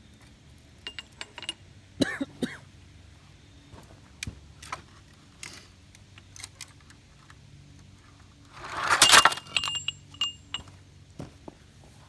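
Hard objects being handled and piled onto a toy truck: scattered clicks and metallic clinks, with a louder jangling clatter about nine seconds in.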